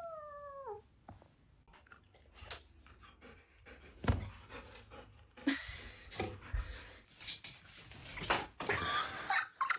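A cat's sounds: a drawn-out call falling in pitch ends under a second in, followed by scattered knocks and short noisy bursts.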